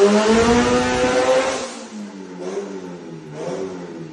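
Honda CR-X's built D16 four-cylinder engine at full throttle on a chassis dyno, its pitch climbing steadily, then cut off about a second and a half in as the pull ends. After that it runs much quieter, with a few short rises in engine sound.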